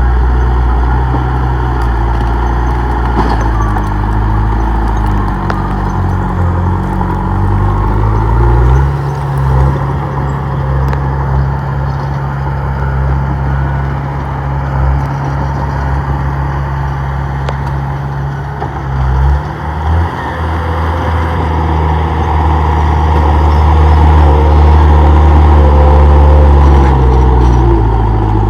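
Komatsu D31P bulldozer's diesel engine running under load, its pitch stepping up about a third of the way in, dipping briefly about two-thirds through, and falling near the end.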